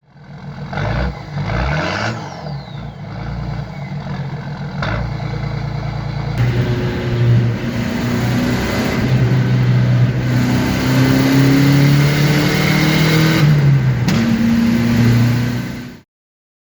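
A vehicle engine revving, then running steadily with its pitch rising and falling, in two cut-together stretches. It stops abruptly near the end.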